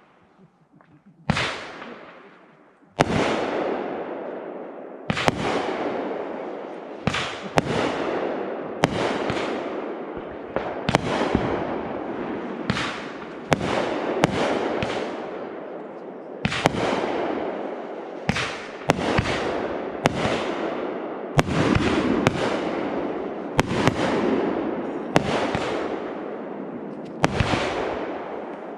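Aerial fireworks show: shells bursting one after another, about one a second, each sharp bang trailing off in a long rolling echo.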